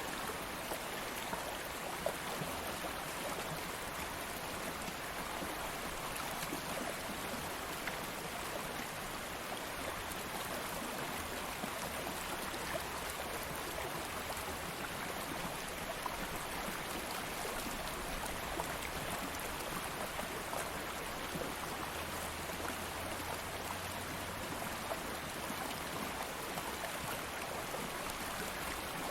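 Stream of flowing water running steadily, an even rushing sound with small splashes and drips scattered through it.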